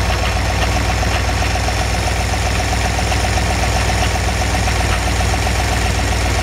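A 1966 Dodge Dart's 273 LA V8 engine idling steadily, running again after sitting for 20 years.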